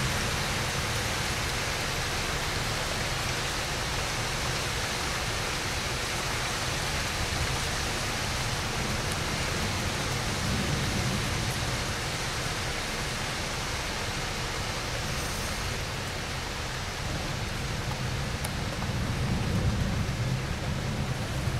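Heavy rain falling in a steady hiss during a thunderstorm, with a low rumble underneath that swells briefly around the middle and again near the end.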